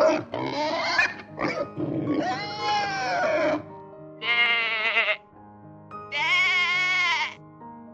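A pig grunting and squealing for the first few seconds. Then two long, wavering bleats from a sheep or goat, each about a second long, over background music with held notes.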